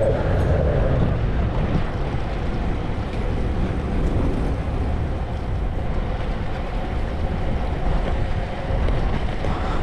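Wind buffeting the microphone over a steady rumble of city traffic while riding a bicycle through the streets.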